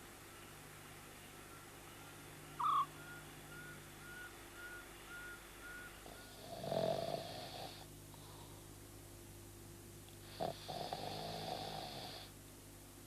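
An aardvark snoring in its sleep: two long snores, one about six and a half seconds in and one about ten seconds in. A short chirp comes near the start, and faint, evenly spaced peeps sound for a few seconds.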